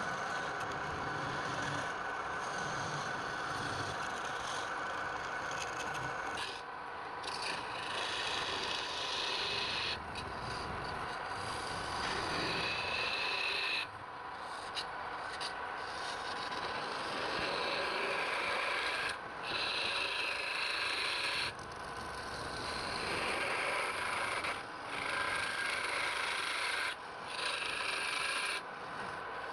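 Wood lathe running, with a tool rubbing and scraping on the spinning wood. The scraping breaks off briefly every few seconds as the tool is lifted and set back on.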